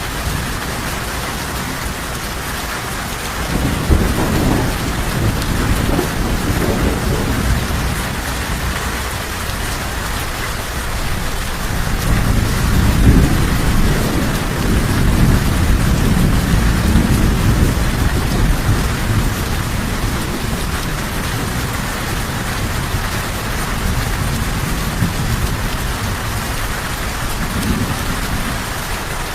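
Steady rain falling, with low rolls of thunder: one rumble about four seconds in and a longer, louder one from about twelve seconds that fades out over several seconds.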